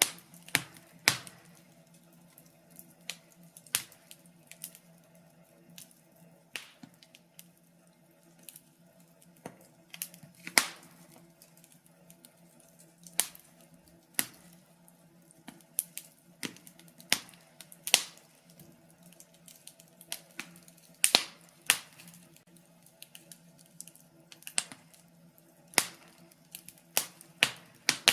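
Fire in a fireplace crackling: irregular sharp pops and snaps, several a second at times, with a few louder ones, over a faint steady hum.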